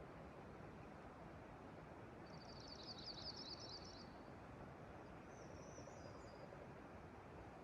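A songbird sings a rapid, high trill lasting about a second and a half, then a shorter high phrase about two seconds later. Faint steady outdoor hiss runs underneath.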